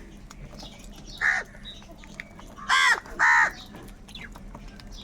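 Crows cawing: one harsh caw about a second in, then two louder caws in quick succession near the middle, with fainter caws between.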